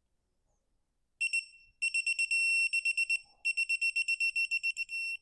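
Digital torque wrench beeping as the bolt reaches its 25 Nm setting: a rapid run of high-pitched beeps starting about a second in, with short breaks, some beeps running together into a longer tone.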